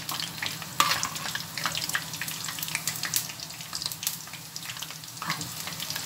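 Eggplant cubes deep-frying in hot oil in a pan: a steady crackling sizzle with sharp pops scattered through it.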